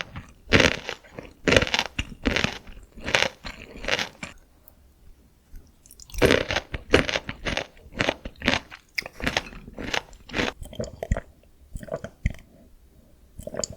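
Close-miked crunching and chewing of crispy soy-glazed Korean fried chicken (dakgangjeong), in quick runs of crackly bites. The crunching pauses about four seconds in, resumes around six seconds, and turns to softer chewing near the end.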